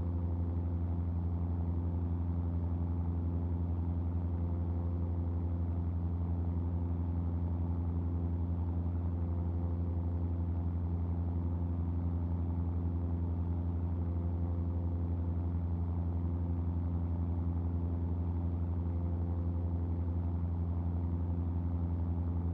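Cessna R182 RG's six-cylinder Lycoming engine and propeller droning steadily in flight, a constant low hum that holds one pitch throughout.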